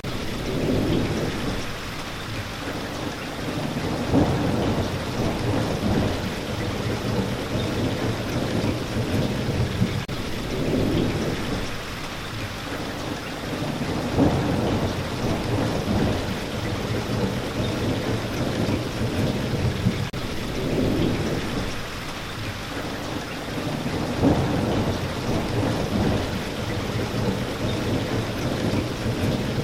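Steady rain with low thunder rumbles that swell and fade again every few seconds.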